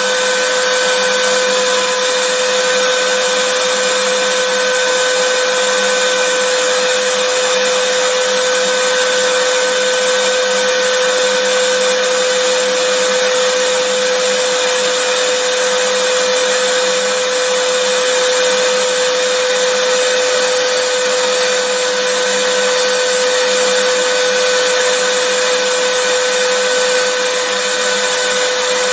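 Vacuum cleaner running steadily: a constant motor whine over a rush of air, without change.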